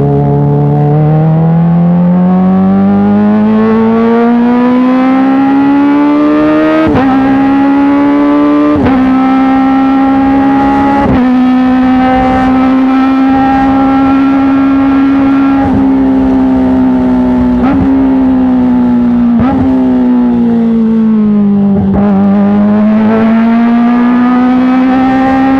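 Kawasaki ZX-25R inline-four engine through an Arrow full-system titanium exhaust, its revs climbing steadily for several seconds. It then holds a high note, broken by brief sharp cuts every couple of seconds, dips and climbs again near the end.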